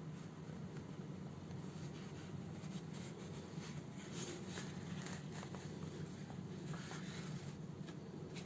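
Faint, irregular scratching and rustling of hand sewing: a needle and thread drawn through a house slipper's fabric, over a steady low hum.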